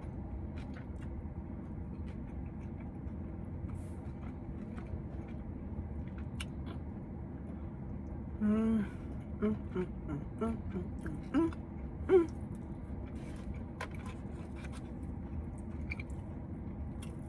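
Someone eating a salad: scattered faint clicks and chewing over a steady low hum, with a few brief murmured vocal sounds about eight to twelve seconds in.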